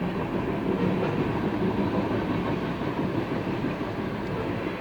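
Freight train cars rolling past, the steady noise of steel wheels running on the rails.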